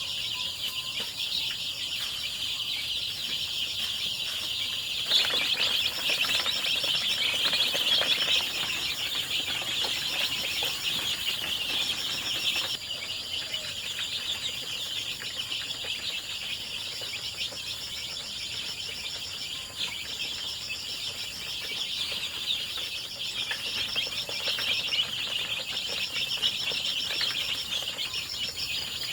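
A flock of young chickens peeping continuously, many at once, swelling louder about five seconds in. A pulsed insect trill runs high above them.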